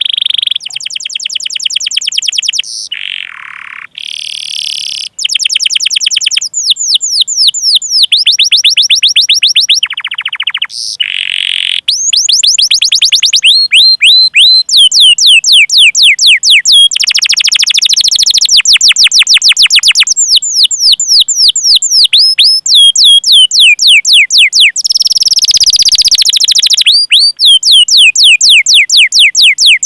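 Domestic canary singing a long, loud song of rolling trills: fast runs of repeated, downward-sweeping chirps, changing to a new phrase every one to three seconds, with brief breaks between some phrases.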